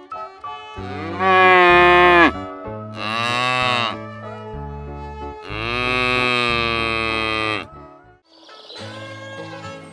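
Three long moos, each sliding down in pitch as it ends, over light background music.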